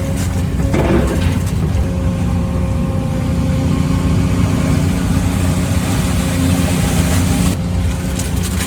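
Excavator's diesel engine running steadily, with a short louder burst about a second in.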